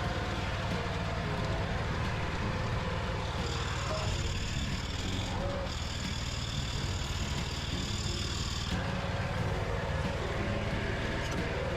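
Mini tractor engine running steadily. A high-pitched whine joins it from about three and a half seconds in and stops near nine seconds.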